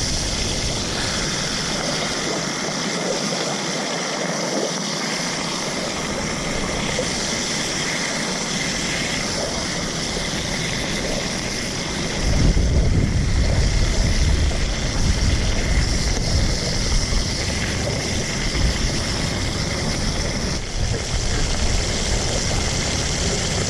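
Meat frying in tallow on a titanium plate, with a steady sizzle throughout. A low rumble joins in about halfway through.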